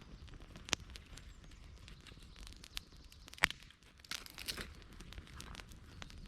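Small campfire of burning twigs crackling, with irregular sharp pops; the loudest pop comes about three and a half seconds in.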